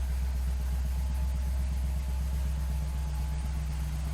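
Classic Chevrolet muscle car's engine idling steadily, deep and even.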